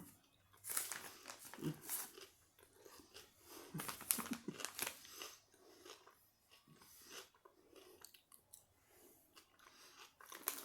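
Close-up mouth sounds of someone biting and chewing crunchy spicy pickles, with irregular wet crunches.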